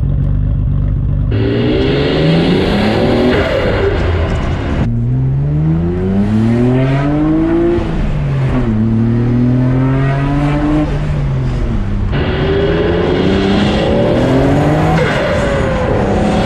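Nissan RB26DETT twin-turbo straight-six in an R32 Skyline GTR with an aftermarket exhaust and pod filters, revving and pulling hard: the engine note climbs in pitch, drops at a gear change about eight seconds in, then climbs again. The sound changes abruptly about a second in, around five seconds and around twelve seconds, as if separate clips follow one another.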